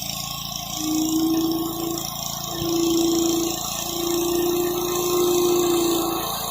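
Gas-engine pressure washer running, with the high-pressure water spray hissing against concrete. A steady humming tone comes and goes three times: about a second in, again near the middle, and then longest for a couple of seconds.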